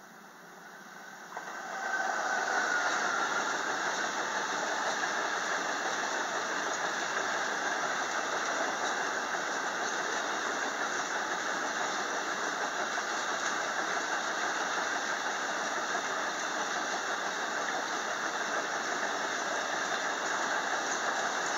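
Electric passenger train running past close by at speed: a steady rush of wheel-on-rail noise that swells about two seconds in, with a brief high squeal from the wheels as it arrives.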